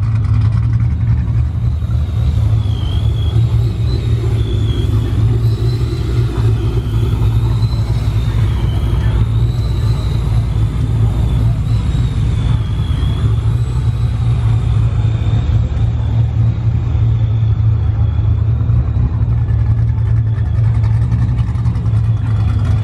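A vehicle engine running in a steady low drone at an unchanging pitch, with a faint high tone wavering up and down over it through the first half.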